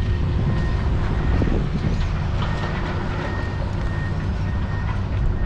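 A large engine running steadily with a low rumble, joined about halfway through by short high beeps repeating about twice a second.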